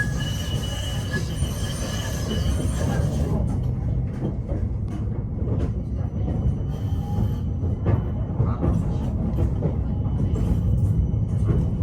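Interior of a PKTS 71-931M Vityaz-M low-floor tram running along the track, with a steady low rumble from the running gear. A thin high whine or squeal sounds for the first three seconds or so, then drops away, leaving the rumble with scattered short knocks.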